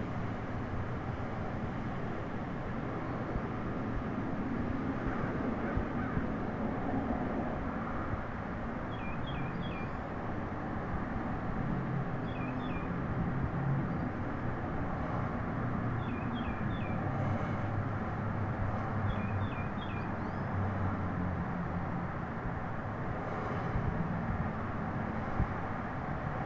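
A steady low outdoor rumble throughout, with a bird calling four times in quick groups of two or three short, high notes in the middle stretch.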